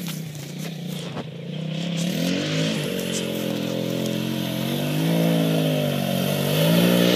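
Small off-road vehicle engine revving as it is ridden, its pitch rising and easing off twice and growing louder as it comes nearer.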